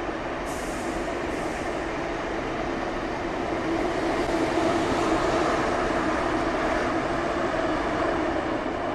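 An ICE 2 high-speed train running past along the platform as it leaves the station, a steady rumble of wheels and running gear with a hum, loudest in the middle and easing off near the end. Two short hisses come near the start.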